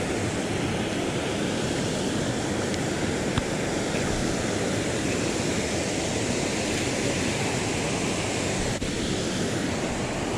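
Steady rushing of a waterfall pouring into a creek, with one brief click about a third of the way through.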